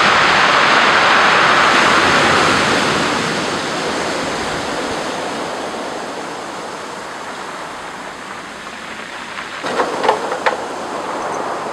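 Storm waves crashing against a seawall at high tide: a loud rush of breaking water at the start that slowly fades away over several seconds. A few short, sharp knocks come near the end.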